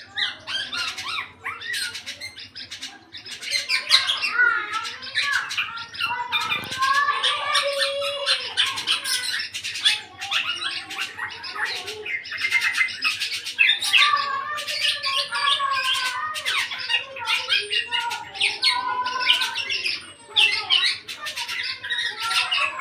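Eight-month-old black-naped oriole singing almost without pause: a busy stream of short sharp notes and curving whistled phrases. For a young oriole this steady, free singing is the sign that it has begun to come into song.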